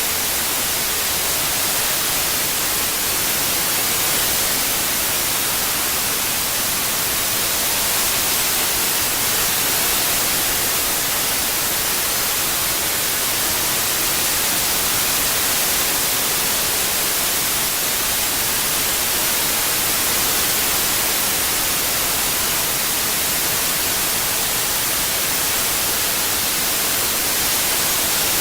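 Steady synthetic white noise, an even hiss strongest in the high end, with no change in level.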